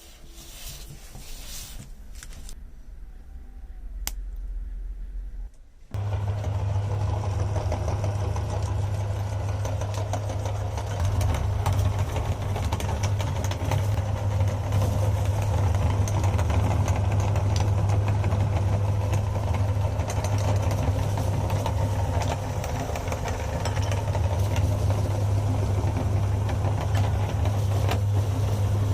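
Electric meat grinder switched on about six seconds in, its motor humming steadily while it grinds KitKat chocolate wafer bars, with many small crackles over the hum.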